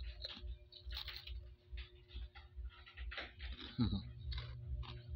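A crunchy puffed vegetable chicharron snack being chewed, with a regular run of crackly crunches a few times a second. About four seconds in, the phone being handled makes a louder bump.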